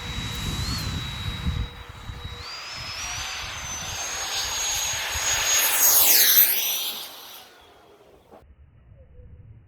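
Electric ducted fan jet on a four-wheel-drive RC car whining at high speed, its pitch climbing about two and a half seconds in and loudest near six seconds, then dropping away abruptly about seven and a half seconds in.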